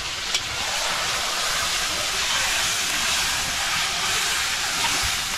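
Meat sizzling steadily in a large wok over a wood fire, an even frying hiss, with one light tap of the spoon near the start.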